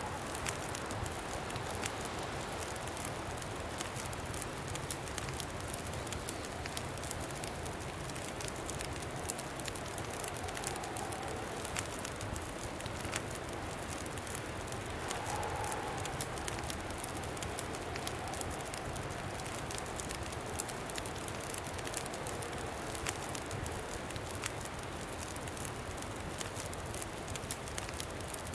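Campfire crackling with many small sharp pops over a steady wind noise. A faint wind whistle rises and falls in the middle.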